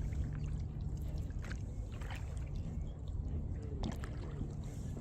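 Kayak paddle strokes: water splashing and dripping off the paddle blades a few times, over a steady low rumble.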